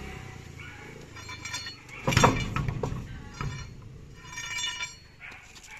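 Metal clanking and clinking from truck wheel work, with one loud ringing clank about two seconds in and lighter clinks after it.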